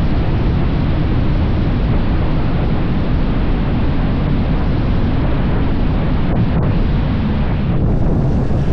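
Wind rushing over the microphone of a motorcycle at speed, a loud steady roar of noise with the engine and road noise mixed in underneath.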